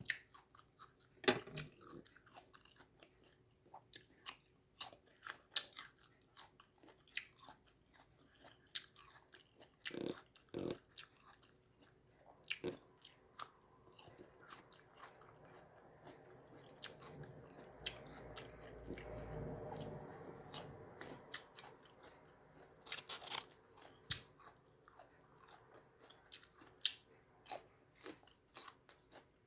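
Close-miked biting and chewing of crisp, unripe mango flesh: irregular short crunches and wet mouth clicks. Around the middle a faint low rumble swells and fades under the chewing.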